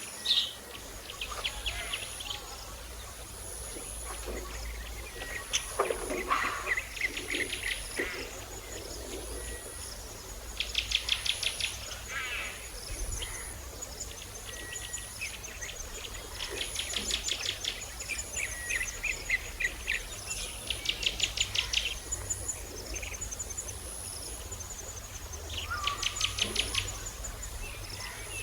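Budgerigar chirping and chattering in several short bouts of rapid, quick-fire chirps. Behind it, a faint high-pitched tone pulses regularly, about once a second.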